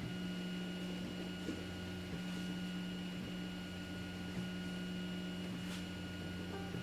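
Zonestar P802M 3D printer running mid-print: a steady mechanical hum made of several even tones, with a few faint clicks.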